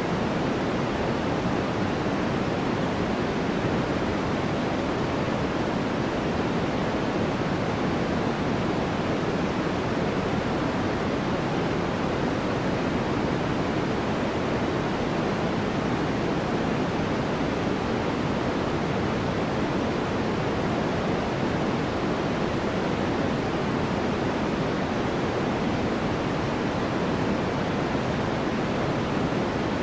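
Steady noise for sleep, an even, unchanging hiss. It is weighted toward the lower, deeper range, closer to pink noise than flat white noise.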